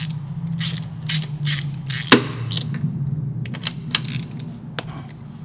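Hand ratchet clicking in irregular runs with clinks of metal tools, as a spark plug is worked out of the engine, with a sharp click about two seconds in. A steady low hum runs underneath.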